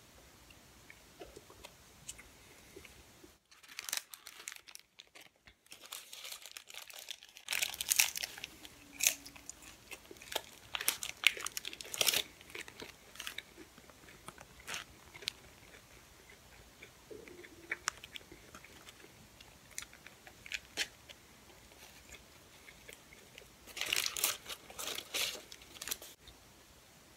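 Crisp crunching and chewing of a deep-fried taco, with its paper wrapper crinkling. The crunching starts several seconds in and is densest in the middle, with scattered bites after that and a cluster of crinkling and crunching near the end.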